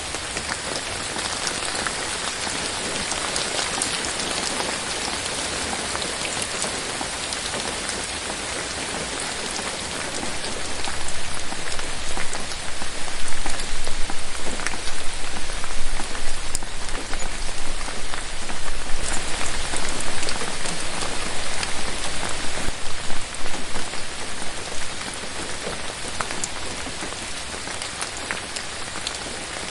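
Steady rain falling on forest leaves. It grows heavier about ten seconds in and eases again near the end.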